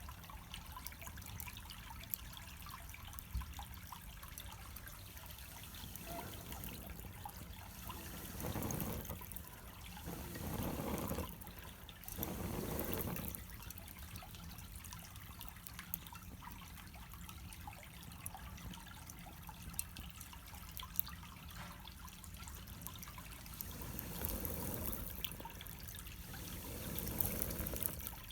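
Charcoal fire in a shichirin grill crackling and sizzling, with scattered pops and several louder surges of hissing lasting a second or so.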